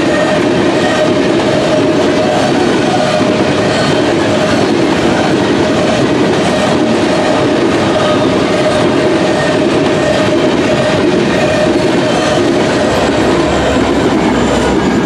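Empty covered hopper cars of a long freight train rolling past: steady, loud wheel-on-rail noise with a sustained ringing wheel squeal. Near the end the low rumble of the rear distributed-power diesel locomotive, a Union Pacific SD70AH, builds in.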